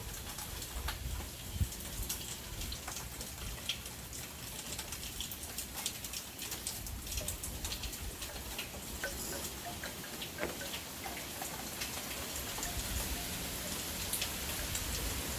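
Tropical-storm rain falling steadily, with many drops ticking sharply on a nearby surface over a low rumble of wind.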